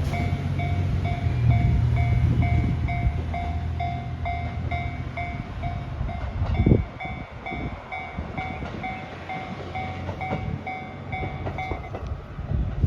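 KiHa 122 series diesel railcar's engine running with a low drone, which drops away after a single loud thump about seven seconds in. Throughout, a bell-like signal rings steadily about twice a second and stops near the end.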